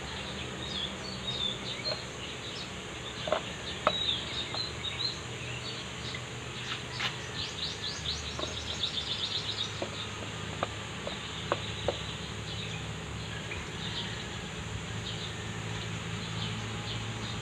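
Small birds chirping, with a rapid trill about halfway through, over a low steady hum. A few sharp clicks stand out, the loudest about three and four seconds in.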